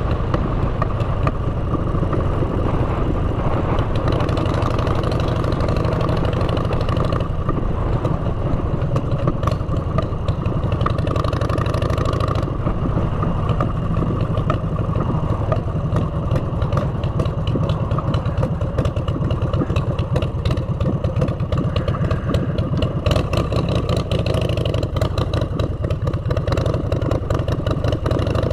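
Motorcycle engine running through aftermarket exhaust pipes while riding, a steady, loud low exhaust note with fine rapid pulsing and no big revs.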